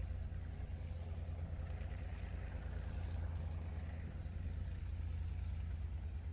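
An engine idling, a steady low rumble with no change in speed.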